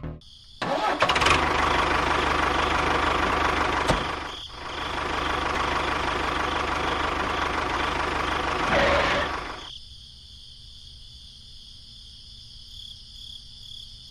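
A small engine running steadily, dipping briefly about four seconds in, then cutting out near ten seconds and leaving only a faint steady hum.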